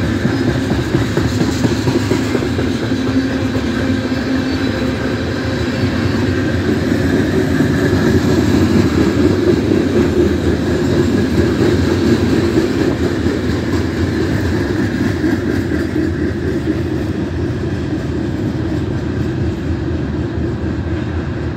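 Coal hopper cars of a freight train rolling past: a steady rumble and clatter of steel wheels on the rails, easing off a little near the end as the train moves away.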